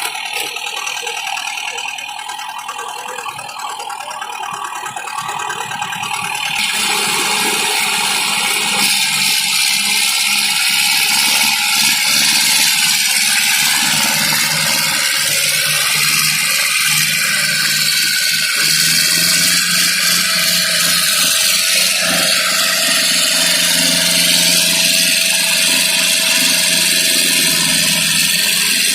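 Diesel tractor engines running hard in a tractor tug-of-war, growing louder about six seconds in as they pull.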